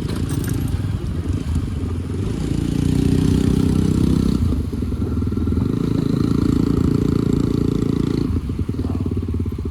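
Motorcycle engine running under way; the engine note rises about two seconds in, holds, and drops back to a slower, pulsing beat near the end.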